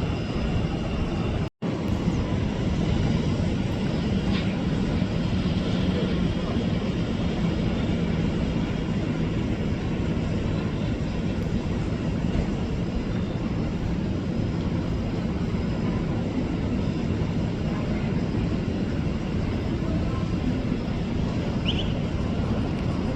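Steady noise of a jet airliner's engines running, with a constant low hum; there is a brief cut-out about one and a half seconds in.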